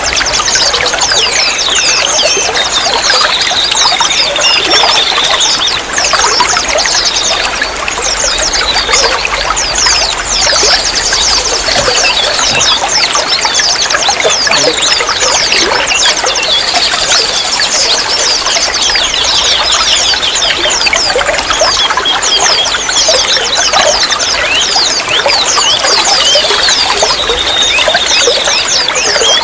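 Running water trickling and splashing steadily without a break, with dense high chirps and a few short warbling trills over it.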